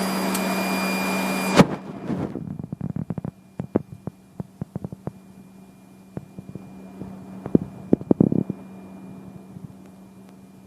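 Cockpit radio audio: a loud steady hiss cuts off with a sharp click about a second and a half in, as a transmission ends. A low steady hum remains, with scattered clicks over the next few seconds and a short cluster of them about eight seconds in.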